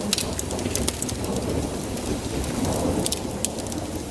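Steady rain falling, with many sharp ticks of individual drops striking a surface.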